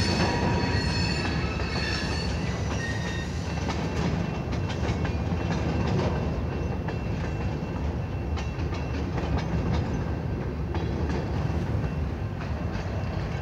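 An Escanaba and Lake Superior freight train of covered hopper cars rolling past at a grade crossing: a steady low rumble with the wheels clicking over the rail joints and the crossing.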